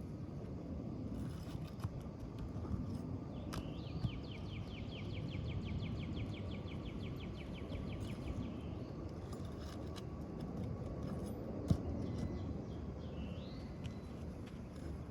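Outdoor ambience with a steady low rumble of wind on the microphone. A songbird sings one rapid, even trill of repeated notes lasting about four seconds, then a short chirp near the end. A few sharp knocks or taps stand out, the loudest about three quarters of the way in.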